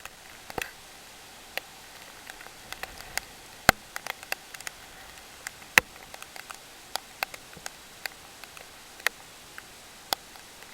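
Scattered raindrops tapping sharply and irregularly on a hard surface, a few ticks a second and uneven in strength, over a steady faint hiss.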